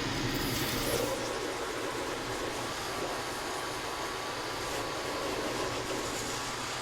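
Steady machine noise, an even hum and hiss with a faint whine.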